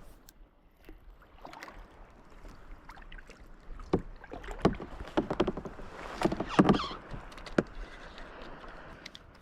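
Small portable boat being paddled on the water: irregular knocks against the hull and the splash of strokes, with a longer splash about six to seven seconds in.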